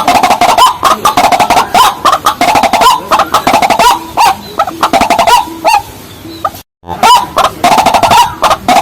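Rails calling loud and fast, a dense run of repeated clucking calls, with a brief complete break about two-thirds of the way through.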